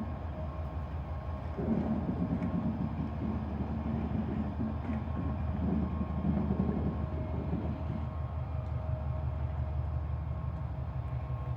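Class 70 diesel freight locomotive's engine running with a steady low drone and a faint steady whine above it. The rumble grows louder from about a second and a half in and eases off again after about seven seconds.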